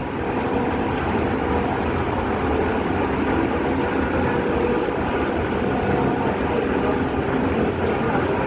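Bangkok MRT metro train running, a steady, even noise that does not change.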